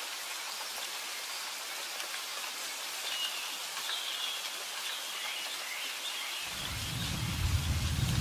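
Steady rain hiss with faint bird chirps. About six and a half seconds in, a deep low rumble sets in and the sound grows louder.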